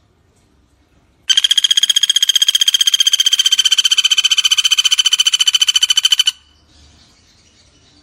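Pelatuk bawang (common flameback woodpecker) giving one long, rapid rattling trill of about a dozen notes a second, level in pitch, cutting off sharply after about five seconds.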